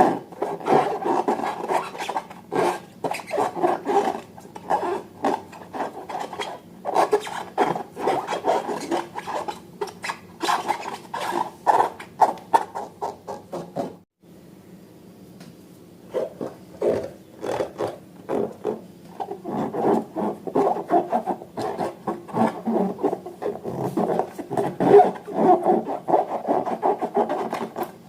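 Rubber balloons and slime being handled: irregular rubbing and squeaky scraping strokes, with a short pause about halfway through.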